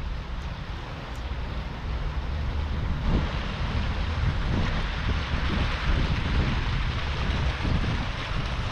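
Wind buffeting the microphone in low, uneven rumbles, over a steady rush of splashing water from a running garden fountain that grows louder about three seconds in.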